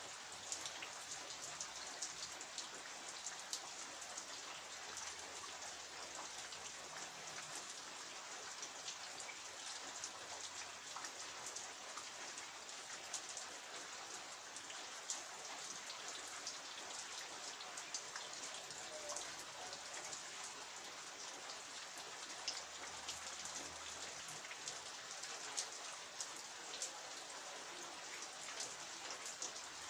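Steady rain falling, a constant hiss dotted with many small sharp ticks of individual drops striking surfaces.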